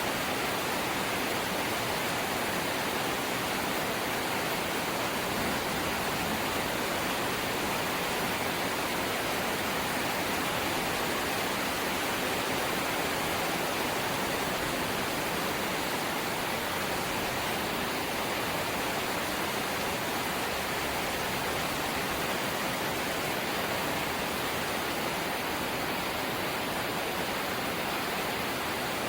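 Rain falling steadily on a corrugated zinc sheet roof, an even, unchanging wash of noise.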